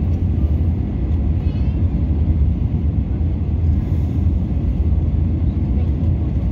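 Steady low rumble of an Airbus A320neo's engines and airflow, heard inside the cabin.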